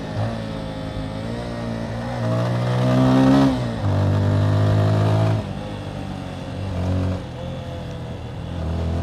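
Motorcycle engine pulling through the gears: its pitch climbs, then drops suddenly at a gear change about three and a half seconds in, and again about five and a half seconds in.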